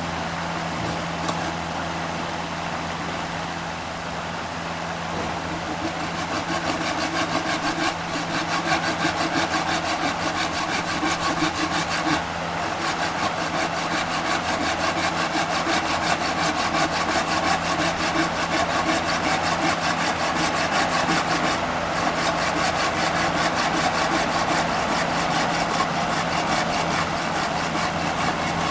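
Oak being sawn, with a fast, even rhythm of scraping strokes that sets in about six seconds in, over a steady machine hum.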